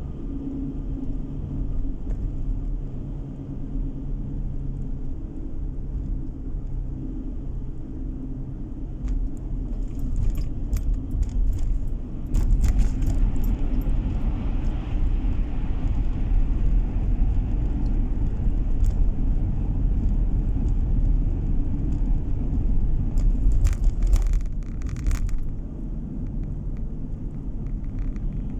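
A car driving at road speed, heard from inside the cabin: a steady engine and tyre rumble that grows louder about twelve seconds in. Short bursts of light clicking or rattling come twice, around ten to thirteen seconds and again near twenty-four seconds.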